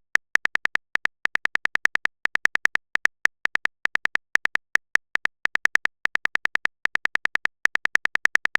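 Typing sound effect: a fast run of short, high-pitched electronic clicks, about seven a second, in bursts with short gaps, like text being typed out letter by letter.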